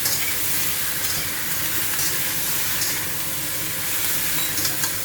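Fried chicken pieces, onion and potato sizzling steadily in hot oil in a pan as they are stirred, with light scrapes and clicks from the utensil.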